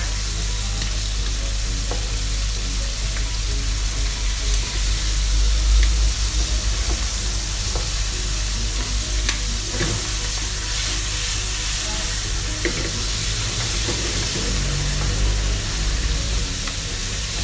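Chicken livers sizzling as they fry in butter in a pan, cooking to medium, with a few light clicks of stirring.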